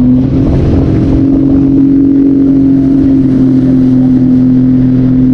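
Jet ski engine running under throttle, its pitch rising a little at the start and then holding steady and loud.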